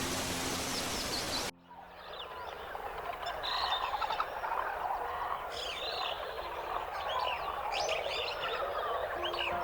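A steady noisy background with held low tones cuts off abruptly about a second and a half in. It gives way to many wild birds chirping and calling over one another, with short rapid chirps and gliding calls.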